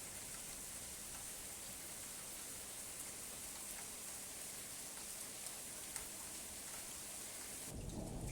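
Steady rain hiss with occasional single drop ticks. Near the end it changes abruptly to a lower, rumbling sound.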